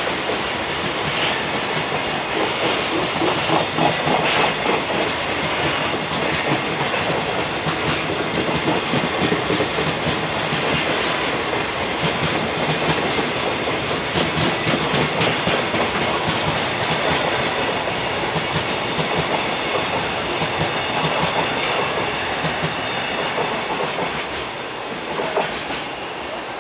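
Koki container flatcars of a long freight train rolling past, wheels clattering steadily over the rail joints. Near the end the sound drops away as the last wagons go by.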